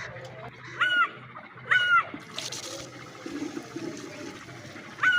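A brief rush of water at about two and a half seconds in, with short bird calls rising and falling in pitch, two near the start and one more at the end.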